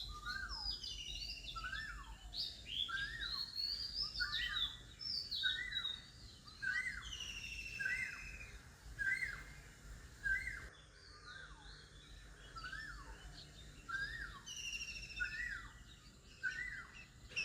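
Several birds singing and calling, one repeating a short sweeping note over and over, with higher, falling chirps and trills above it.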